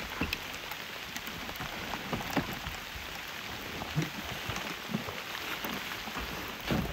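Steady rain mixed with hail, with scattered sharp ticks of drops and pellets striking close by and a few soft knocks.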